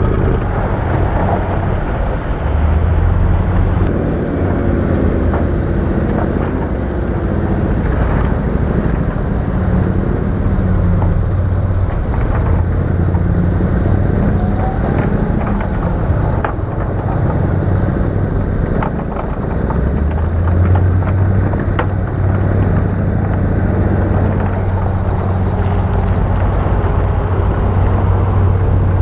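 Heavy diesel engine of earthmoving machinery running steadily under load, its low drone easing for a while and then coming back strongly. A few sharp clanks cut through it.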